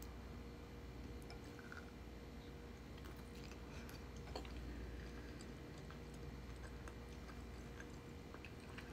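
Faint close-up mouth sounds of a person biting into and chewing a soft-boiled egg coated in sauce, with small wet clicks scattered throughout.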